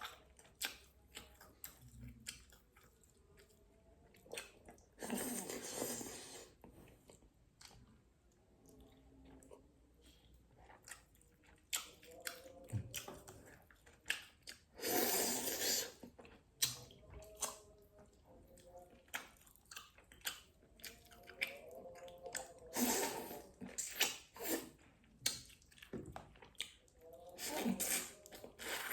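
Close-miked eating sounds of a person chewing fish with green chili seasoning: many wet mouth clicks and smacks. Four times there is a louder noisy rush about a second long.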